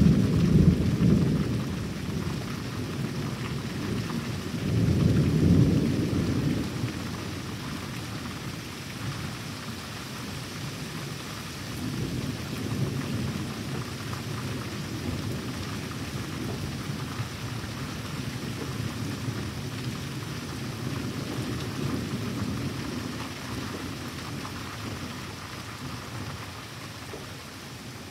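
Rolling thunder rumbling over steady heavy rain: a loud rumble at the start, another about five seconds in, then fainter rolls later on while the rain hiss carries on.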